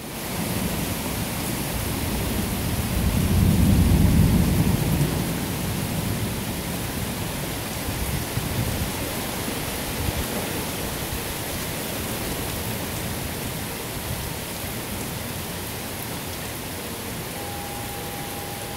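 Heavy rain falling steadily, with a low rumble of thunder swelling and fading about three to five seconds in.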